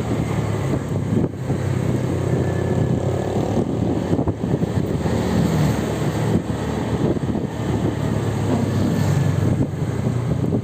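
Steady road-vehicle noise: a low engine and tyre rumble that runs on without a break.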